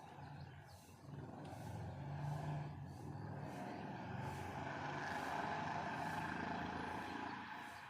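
A road vehicle passing by: its engine and tyre noise grow louder from about a second in, peak, then fade away near the end.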